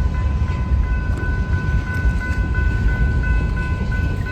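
Diesel-hauled BNSF freight train rolling past with a steady low rumble, with several steady high-pitched tones held over it.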